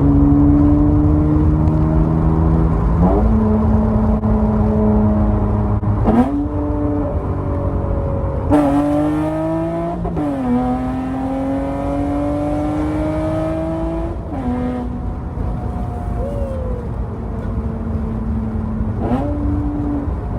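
Acura TL's V6 running through a catless straight-pipe exhaust while cruising at part throttle: a steady exhaust note that climbs slowly in pitch, drops with gear shifts about three, ten and fourteen seconds in, and rises again briefly near the end.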